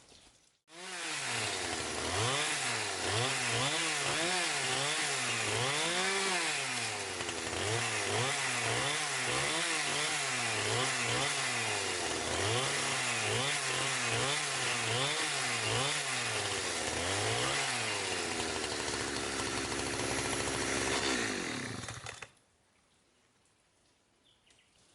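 Chainsaw engine running, its pitch rising and falling over and over, about once a second. For the last few seconds it holds a steadier, lower note. It starts suddenly and cuts off sharply near the end.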